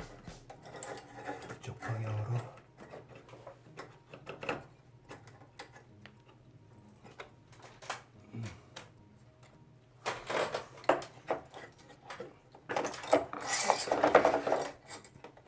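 Plastic parts of a wall-mounted air conditioner being handled and pulled apart: scattered clicks and knocks, then louder clattering and scraping from about ten seconds in.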